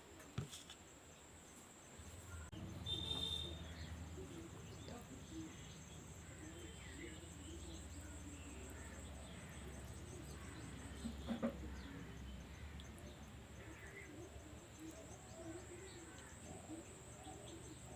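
Faint eating sounds, with small mouth and chewing noises and a few sharp clicks: one about half a second in and one past the middle. A steady high-pitched whine runs underneath.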